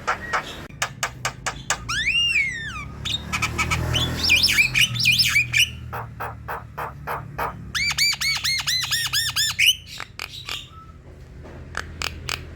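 Javan myna singing: a varied run of sharp clicks, harsh squawks and whistled notes, with a fast series of repeated arched notes about eight seconds in.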